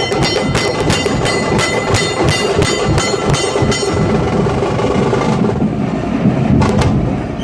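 Nashik dhol drums playing a dense, loud beat, with sharp high strokes about four times a second over them that stop about halfway through while the drumming carries on.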